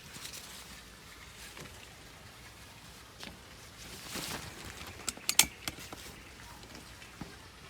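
Rain falling and pattering, with a quick cluster of sharp taps or knocks about five seconds in.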